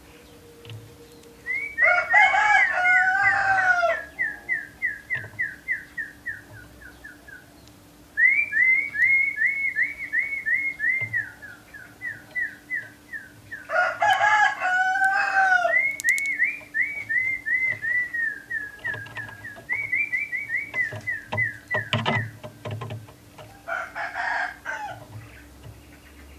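A rooster crowing three times, loud, with long trills of quick repeated chirps from a songbird, about five a second and slowly falling in pitch, running between the crows.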